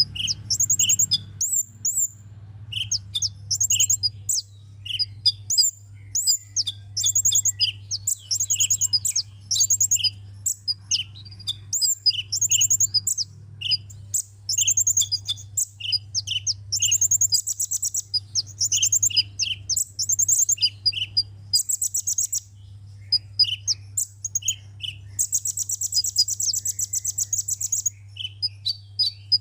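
Sunbird song: rapid, high-pitched chirps and twittering trills, with a longer buzzy trill near the end, over a steady low hum.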